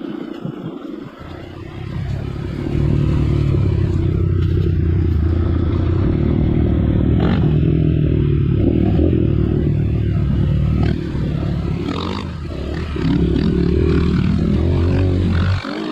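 Off-road motorcycle engine picking up about two seconds in and then running hard under throttle, its pitch shifting with the revs. It eases off briefly past the middle and drops away sharply at the very end.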